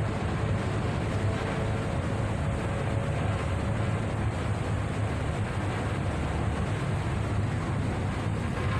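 Steady low drone of a ship's engine under way, mixed with the rush of wind and sea.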